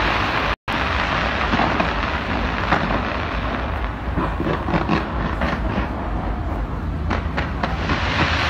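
Fireworks going off in a dense continuous barrage: a steady rumble with many sharp crackles and bangs over it. The sound cuts out for an instant about half a second in.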